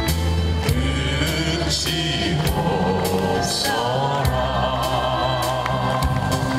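A song being performed: a sung voice with vibrato over instrumental accompaniment with sustained bass notes and a beat.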